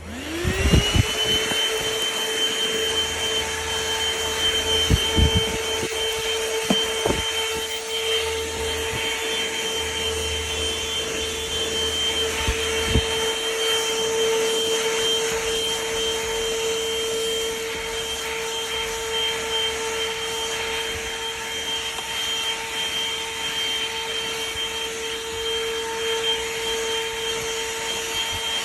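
ThisWorx handheld car vacuum switched on: its motor spins up within the first second to a steady high whine with a rushing hiss of air, and a few light knocks come from the nozzle working over the car's interior.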